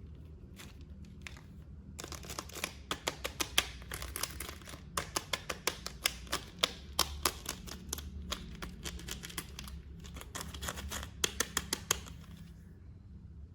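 Plastic toy packaging being handled and unwrapped: a rapid, irregular run of clicks and crackles that starts about two seconds in and stops about a second before the end.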